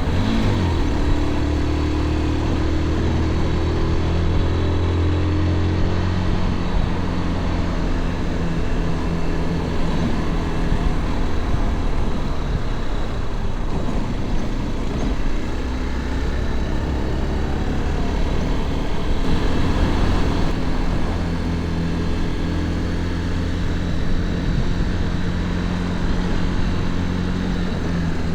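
Motorcycle engine running while the bike rides along the road, heard from on the bike. The engine pitch climbs as it accelerates shortly after the start and again about two-thirds of the way through, over steady wind and road noise.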